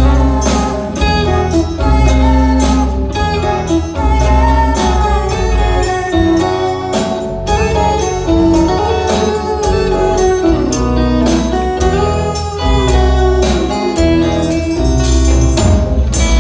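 Instrumental passage of a band's song: drums keeping a steady beat under a bass line and a melodic lead, with guitar in the mix.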